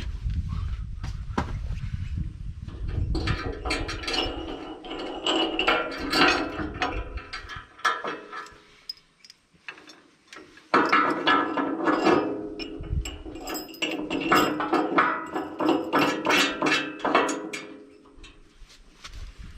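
Repeated metal clanks, knocks and ringing from steel parts being handled and adjusted on the mixer's hitch. They come in two busy stretches with a quiet pause about halfway.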